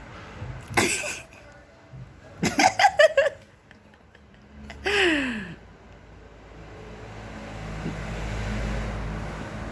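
Laughter: a sharp burst, then a quick run of short chuckles, followed by a single falling vocal sound. A low steady hum swells in the last few seconds.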